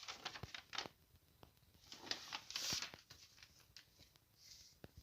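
Toys being handled and set down: scattered light clicks and knocks with short rustling, busiest in the first second and again around two to three seconds in.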